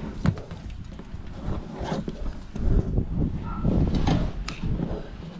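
Several sharp clicks and knocks over low handling and rustling noise.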